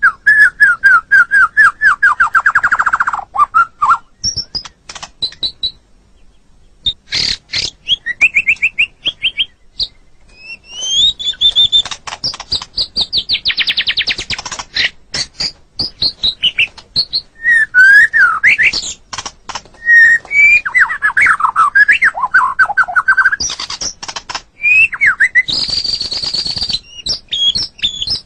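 White-rumped shama (murai batu) singing a long, varied song: fast series of repeated whistled notes, rising and falling whistles and trills, and sharp clicking notes, broken by a couple of short pauses.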